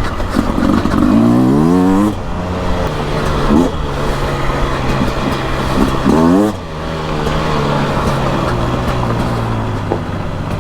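Beta RR 300's single-cylinder two-stroke engine under load, revving up in pitch twice and dropping off sharply each time the throttle closes, with a short blip between. The rest of the time it runs steadily.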